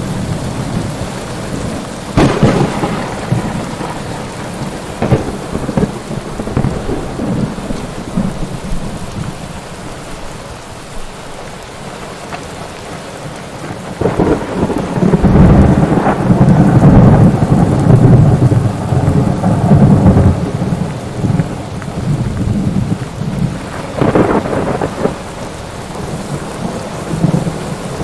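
Thunderstorm: steady rain with thunder, a sharp crack about two seconds in, a long loud rumble through the middle, and another crack near the end.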